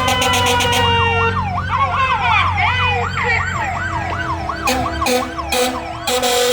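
Fire truck sirens: a siren winding down in pitch, then an electronic siren yelping rapidly at about three and a half sweeps a second from about a second in. Short repeated horn blasts come near the end.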